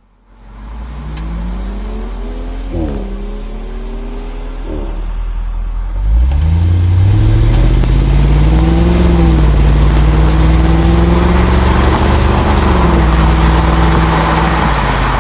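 A BMW X3 accelerating away, its engine note rising and dropping at two quick upshifts. About six seconds in, the Jaguar XK8's AJ27 V8 pulls away under moderate acceleration: a much louder, deep exhaust note that climbs slowly in pitch and holds.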